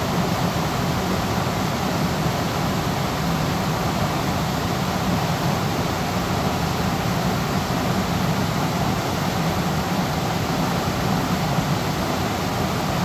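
Waterfall, water falling and rushing steadily: an even, unbroken noise with no changes.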